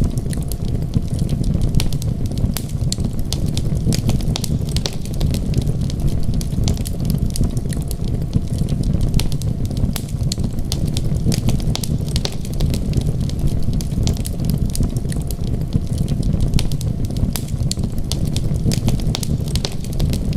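Wood fire crackling in a fireplace, with many sharp irregular pops over a steady low rumble.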